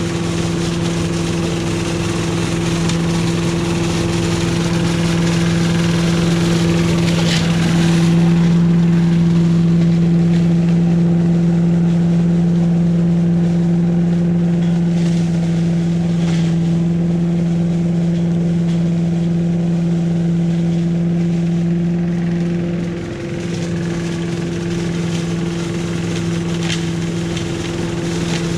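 Billy Goat Estate walk-behind leaf vacuum, driven by a 5.5 hp Briggs & Stratton engine, running steadily while it sucks up leaves, a constant drone with a rush of air and a few short rattles. The level dips briefly about 23 seconds in.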